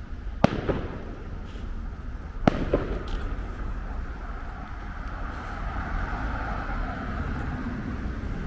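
Fireworks going off: two sharp bangs about two seconds apart, each followed quickly by a smaller crack, over a low rumble of traffic that grows louder near the end.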